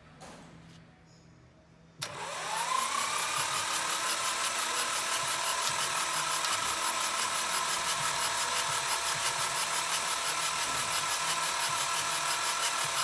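A power tool starts about two seconds in. Its whine rises and levels off, then it runs steadily at a high pitch with a fast, even pulsing.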